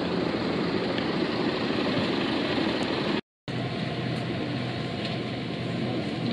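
Steady engine rumble with a dense rushing noise, broken by a brief total dropout about three seconds in.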